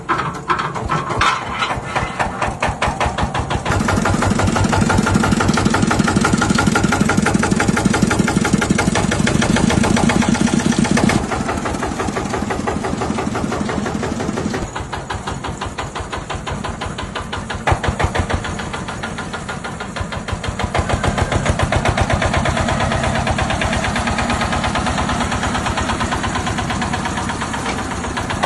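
A secondhand engine running on test, its firing a fast, even pulse that is uneven for the first few seconds. It runs faster and louder from about four seconds in, eases back around eleven seconds, and picks up again a little past twenty seconds.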